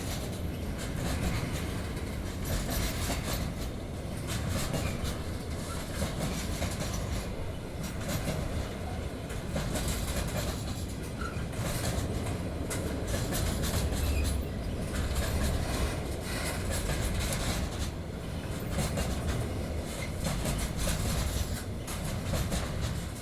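Freight train's wagons rolling slowly over a steel bridge: a steady low rumble with repeated wheel clatter.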